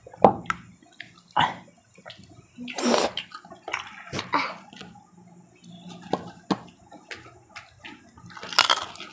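People chewing crunchy fried macaroni chicharon close to the microphone: a run of sharp crunches and clicks, with longer bouts of crunching about three seconds in and again near the end.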